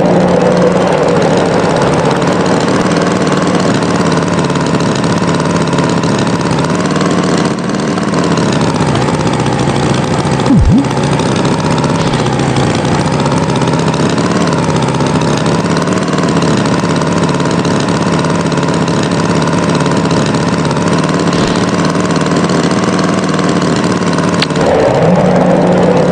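Tractor engine running steadily, its pitch wavering slightly, with one short low knock about ten seconds in.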